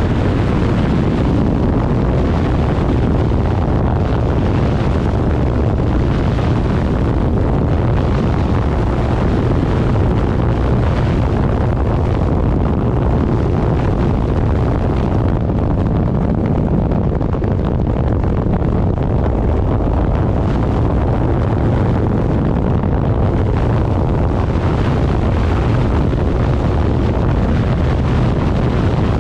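Loud, steady wind buffeting the microphone on a moving vehicle, a continuous low rumble with no breaks.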